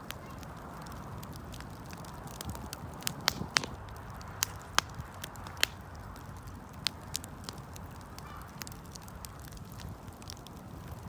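Wood campfire crackling: irregular sharp pops and snaps, a cluster of louder ones in the middle, over a steady low rumble of the fire.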